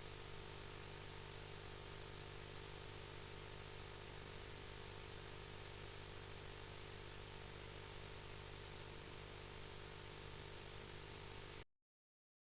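Steady faint hiss with a low electrical hum, the recording's own noise floor; no bird calls stand out. It cuts off suddenly to dead silence near the end.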